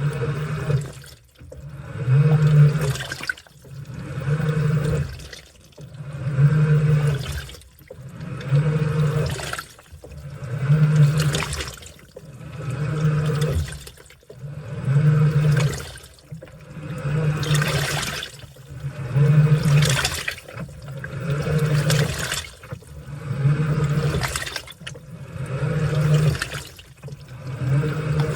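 Washing machine on its wash cycle: the motor hums as it turns the wash back and forth, and water and laundry slosh with each stroke, about every two seconds, pausing briefly between strokes.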